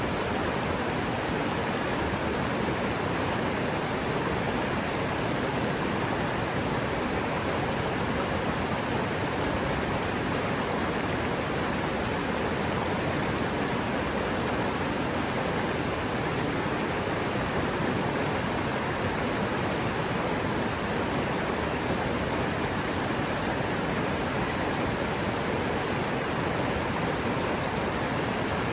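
River water rushing steadily over a forest streambed, an even, unbroken wash of sound.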